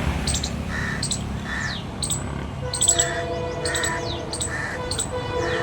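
Birds calling, with short harsh calls repeating about once a second among high chirps; steady tones join in about halfway through.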